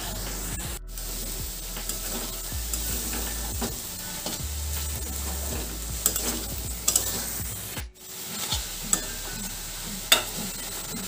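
Cut water lily stems sizzling in mustard oil in a metal karai on a high gas flame, with a metal spatula stirring and scraping against the pan. The water the stems gave off has mostly cooked away, so they are frying rather than stewing. The sound cuts out briefly twice.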